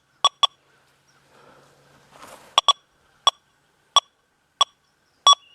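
Metal detector giving a string of short, sharp, high beeps, unevenly spaced about every half second to second, as its coil is swept low over a nickel lying beside a nail; the nickel is hard to pick out, giving only clipped signals.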